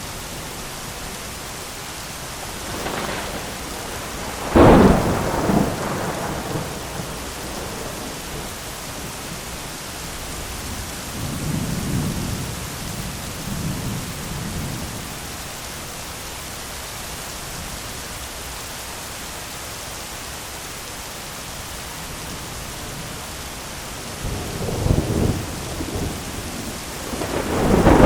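Heavy rain falling steadily on an umbrella, with thunder: a sharp crack about five seconds in, low rumbles in the middle, and a louder rolling rumble building near the end.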